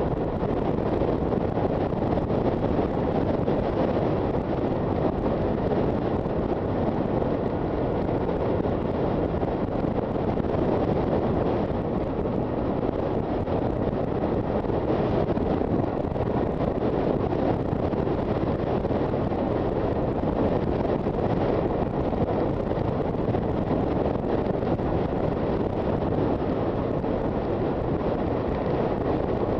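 Steady wind rush buffeting the microphone of a moving motorcycle, with the bike's riding noise underneath and no clear engine note standing out.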